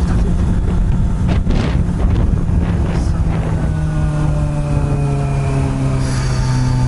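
Honda CB400 Super Bol d'Or (NC42) inline-four running through an r's gear aftermarket exhaust, heard from on the bike with wind rushing over the microphone. About halfway through the engine settles into a steady note that slowly drops in pitch.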